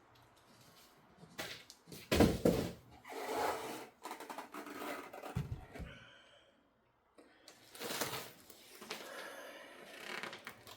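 Cardboard packaging and cart parts being handled while a boxed cart is unpacked: scattered rustling and scraping, with a loud knock about two seconds in.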